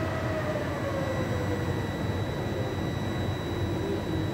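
Interior of a Trenitalia Regionale passenger train: a steady rumble and hum with faint steady whines, and one faint tone sliding slowly downward.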